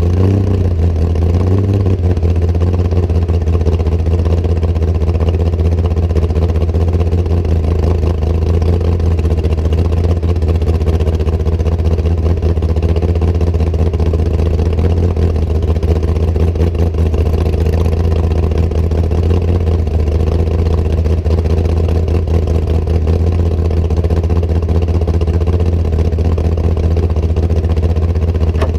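Hot rod coupe's engine running steadily under way, a deep even drone with a brief change in pitch in the first couple of seconds.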